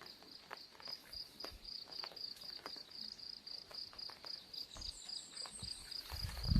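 An insect chirping in a steady, even pulse of about five chirps a second, with scattered ticks of raindrops on an umbrella. A footstep thuds near the end.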